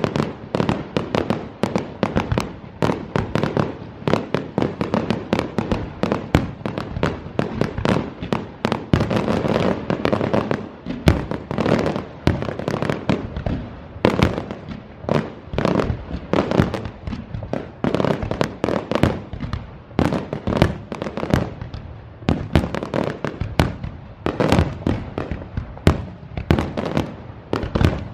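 Fireworks shells bursting in a dense, unbroken barrage, several loud bangs a second with crackling in between: the rapid-fire finale of the display.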